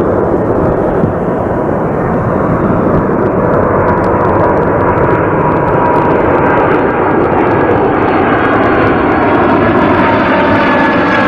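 Boeing 747-400 freighter's four jet engines coming in to land: a loud, steady roar with a whining tone, its pitches falling in the last few seconds as the aircraft passes.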